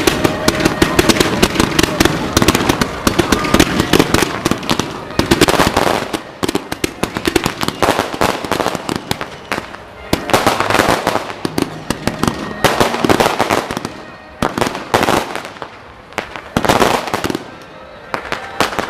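Fireworks and firecrackers going off in rapid strings of sharp pops. The pops are dense at first, then come in separate clusters every couple of seconds.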